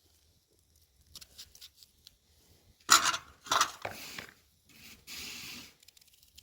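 Objects being handled: faint clicks, then two loud sharp clatters a little before halfway, and a short scraping rustle near the end.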